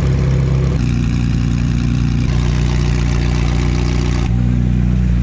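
Car engine running at a steady cruise, its drone holding one pitch and then jumping to a new one about a second in and again near the end.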